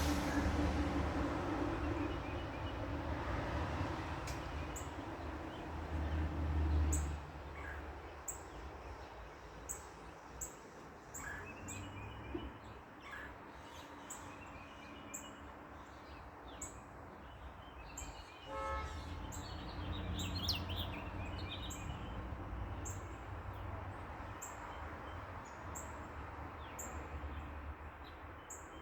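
Backyard outdoor ambience. A passing vehicle's low rumble cuts off sharply about seven seconds in. After that, birds chirp over a steady high insect tick about once a second. Another vehicle rumbles by in the second half, and a short toot sounds just before it.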